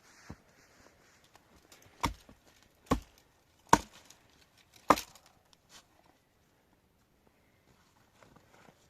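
Wood being chopped: four sharp chopping strikes about a second apart, starting about two seconds in, then quiet.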